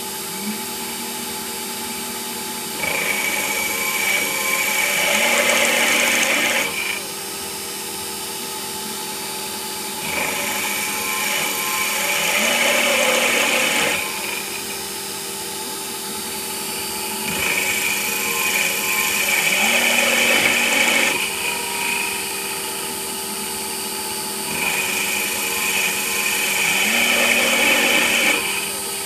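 CNC lathe turning a part: a steady machine hum with four louder cutting passes of about four seconds each, coming roughly every seven seconds, each one opening with a short rising whine.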